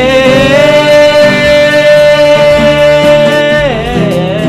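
Sung cover with guitar accompaniment: one voice holds a long, steady high note over strummed chords, then falls in pitch near the end.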